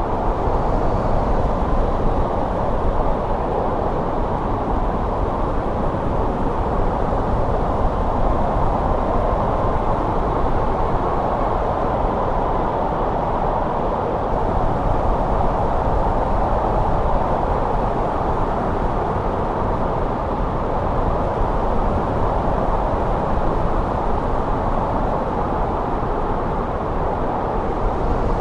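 Winter wind blowing steadily, a dense low hiss that swells and eases only slightly.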